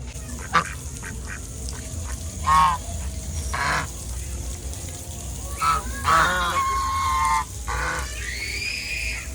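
Birds calling: a series of about six pitched calls, mostly short, one held for about a second, and the last one rising in pitch.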